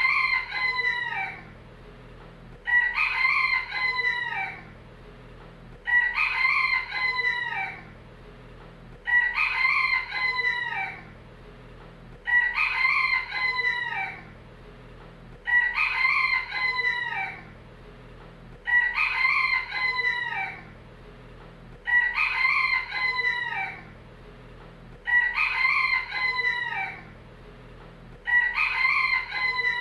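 A rooster crowing: the same cock-a-doodle-doo repeated about every three seconds, each crow lasting under two seconds and falling away at the end.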